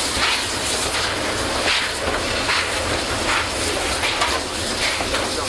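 Steam train passing close by, its open freight wagons rolling past with a steady rumble and a clatter of wheels that repeats a little more than once a second.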